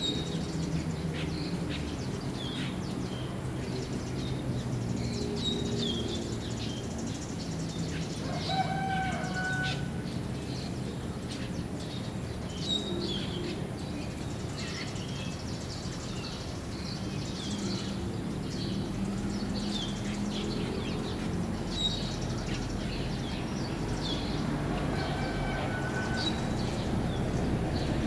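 Outdoor bird calls: many short, high chirps, with two longer, lower calls about eight seconds in and near the end, over a steady low hum.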